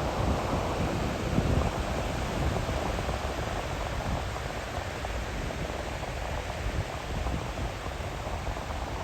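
Steady wash of surf breaking along the beach, with wind buffeting the microphone in low gusts.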